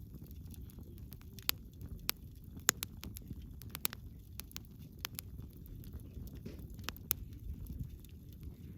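Wood bonfire burning: irregular sharp crackles and pops of the firewood over a steady low rumble of the flames, the loudest pop about two and a half seconds in.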